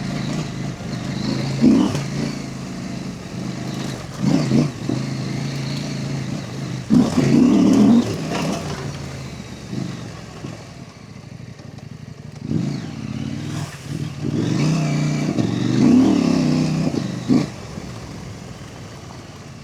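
Husqvarna Norden 901 adventure motorcycle's parallel-twin engine running while riding, the pitch rising and falling as the throttle is opened and rolled off in about half a dozen surges.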